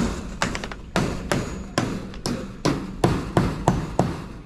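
Steady hammering, a hammer striking in an even rhythm of about two to three blows a second.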